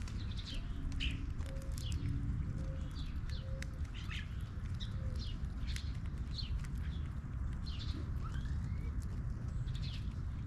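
Several small birds chirping in quick short calls, some notes sliding downward, over a steady low rumble. A few short low notes repeat about once a second in the first half.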